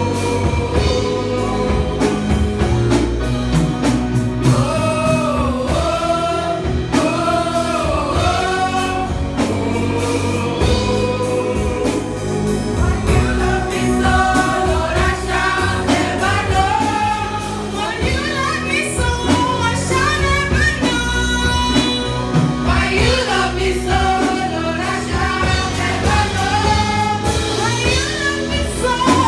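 Gospel-style group singing with instrumental backing and a steady beat.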